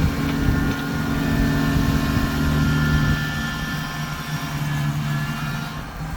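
Kubota tractor's diesel engine running steady while plowing snow; the engine note drops somewhat after about three seconds.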